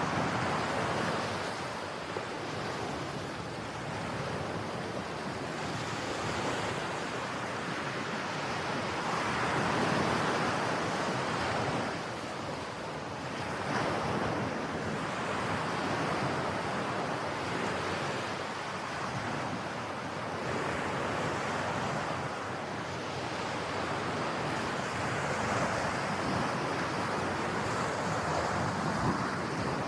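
Ocean waves breaking and washing on the shore, the surf swelling and falling back every few seconds, with some wind on the microphone.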